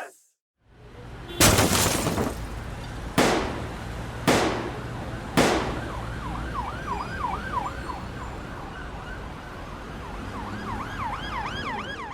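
Intro sound effects: four heavy hits that fade out, then a fast warbling siren-like tone over a steady low hum.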